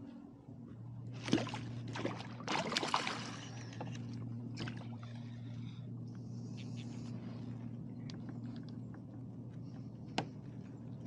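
Water splashing and sloshing beside a kayak as a hooked speckled trout thrashes at the surface while being netted, loudest about a second and a half and three seconds in. A sharp knock comes near the end, over a steady low hum.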